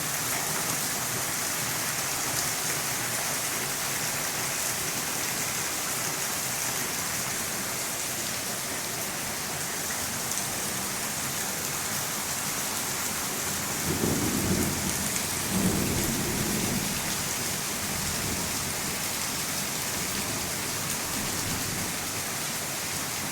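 Steady rain falling, an even hiss throughout. About two-thirds of the way through, a low rumble swells twice over a few seconds, then fades back into the rain.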